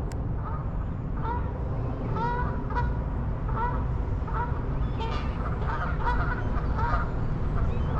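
Geese honking, a rapid series of short calls about one or two a second, over a steady low rumble.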